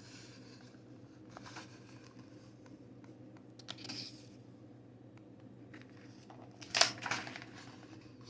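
Paper rustling and crinkling as the pages of a picture book are handled: a few soft rustles, then a louder crinkle about seven seconds in, over a faint steady hum.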